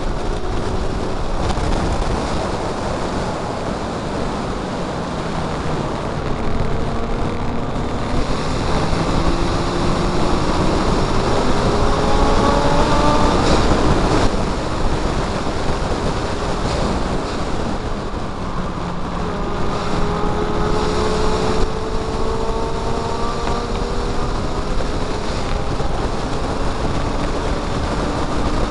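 Mazda MX5 race car's four-cylinder engine heard on board at racing speed under heavy wind noise on the microphone. The revs climb steadily and drop back sharply at gear changes about halfway and about three quarters through.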